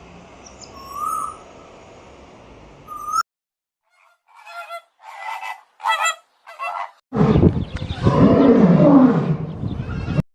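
Animal calls. A faint short call is followed by a run of about half a dozen short pitched calls, then a loud, long, low call whose pitch rises and falls before it cuts off.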